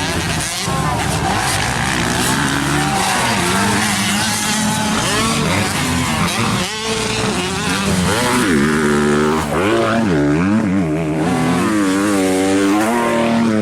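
Motocross bike engines racing, revving up and down repeatedly as riders go on and off the throttle. The pitch swings are most pronounced in the second half.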